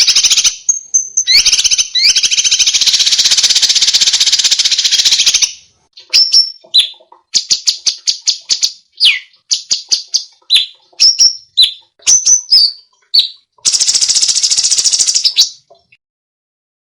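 Songbird singing: two long, very fast trills of rapid-fire notes, with a run of separate sharp chips and short falling whistles between them and brief pauses.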